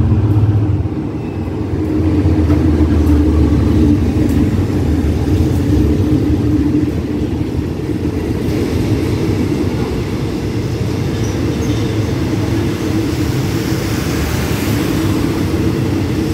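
Diesel-hauled passenger express train pulling into a station to stop. The locomotive's engine gives a steady low rumble as it passes, then from about halfway through the coaches' wheels run by on the rails with a rising hiss of wheel and rail noise.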